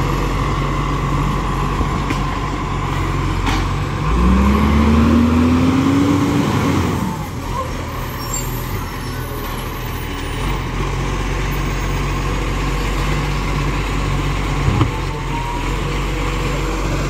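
Garbage truck diesel engine idling, then revving up in a rising pitch for about three seconds, starting about four seconds in, before dropping back to idle. A short knock comes near the end.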